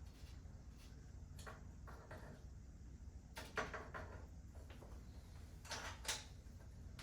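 A few scattered knocks and clicks over a low steady hum, the loudest about three and a half and six seconds in.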